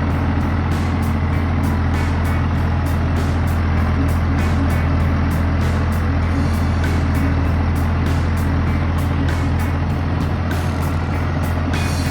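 John Deere tractor engine running steadily at a constant speed, under background music with a steady beat.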